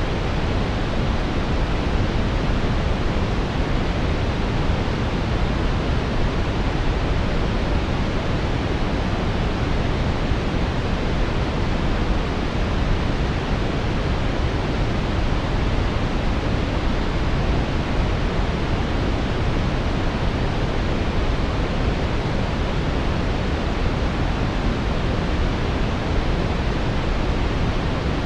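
Brown noise: a steady, even hiss, deepest in the lows and dull in the highs, with no changes or events.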